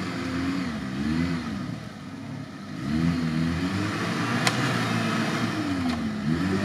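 A Suzuki Samurai off-road 4x4 pushing through deep mud, its engine revving up and falling back several times in short surges.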